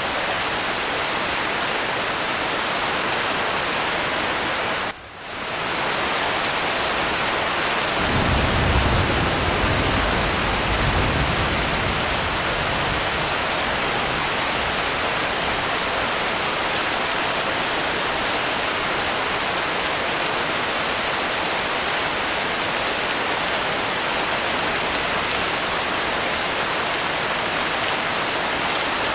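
Steady heavy rain hiss, dipping out briefly about five seconds in. A low rumble of distant thunder swells from about eight seconds and fades by about twelve.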